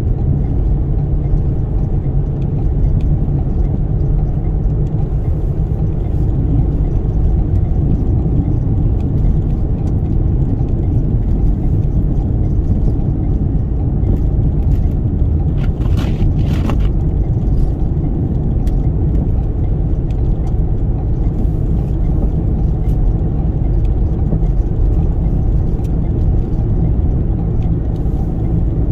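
Steady low rumble of a Toyota Sienna minivan being driven at speed through a snowstorm, heard from inside the cabin: engine, tyre and gusting-wind noise together. A brief hiss rises out of it about halfway through.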